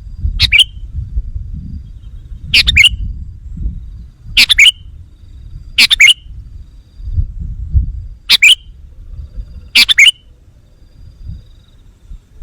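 Sooty-headed bulbul (kutilang) calling: six short, loud chirping phrases, one every two seconds or so, over a low rumble.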